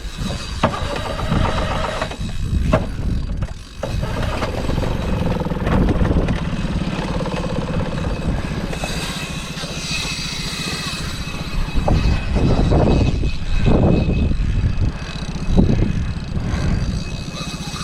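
Boat engine running steadily as the boat gets under way to chase a hooked shark, with a few louder swells of noise near the end.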